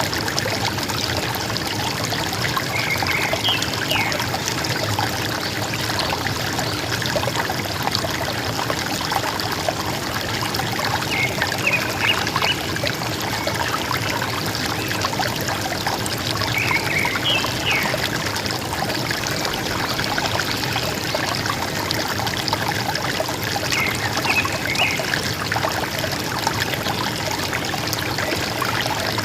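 River water running steadily, with a songbird giving short bursts of a few high chirps four times, several seconds apart.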